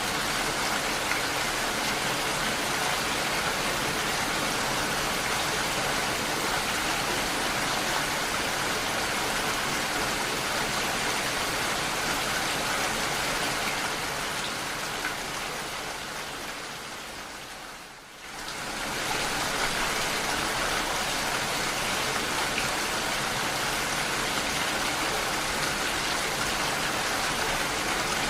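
Steady rain falling, an even hiss. About halfway through it slowly fades down to a brief low point, then swells quickly back to full level.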